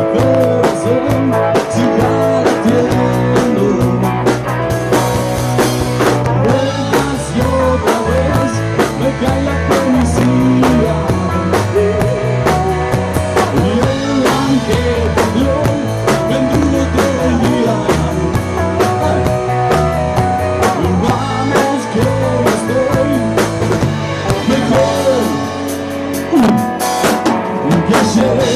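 Rock song playing, with a drum kit and guitar.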